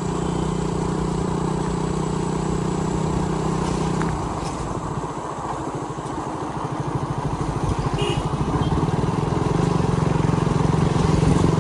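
Motorcycle engine running at a steady speed, easing off about four seconds in to a slow, uneven putter, then picking up again near the end.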